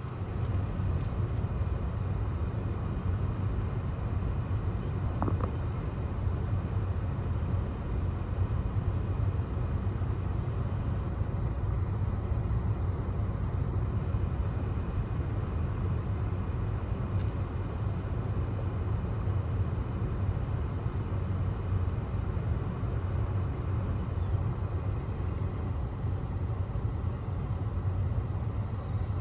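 Steady low outdoor rumble with no clear single event.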